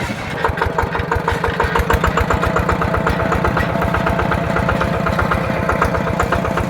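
Yanmar TF120 DI single-cylinder diesel engine running steadily, its firing strokes coming as an even, rapid chug.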